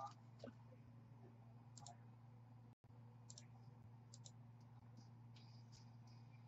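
Near silence: a low steady hum with a scattering of faint, short clicks.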